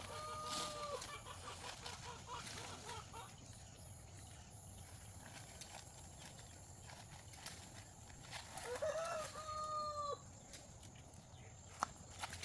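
A rooster crowing twice: one crow at the start and a second about nine seconds in, each a quick rising note that is then held. A single sharp click near the end.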